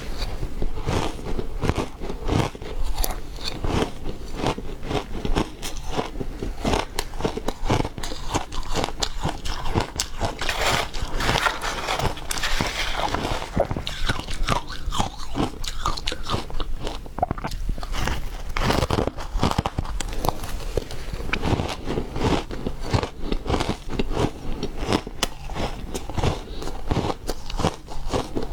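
Refrozen ice being bitten and chewed close to the microphone: continuous irregular crunching and crackling with many sharp cracks.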